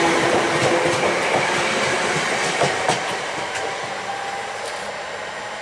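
Class 320 electric multiple unit pulling away on the rails. Its motor hum fades in the first second or two, and the wheels give a few clacks over rail joints as the running noise steadily grows quieter.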